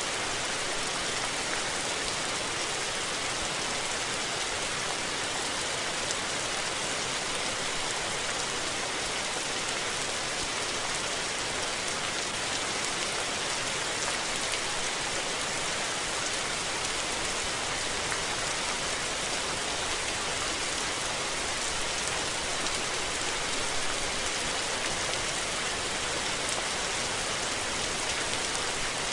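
Steady rain falling and pattering on surfaces, a dense even hiss of drops with no thunder.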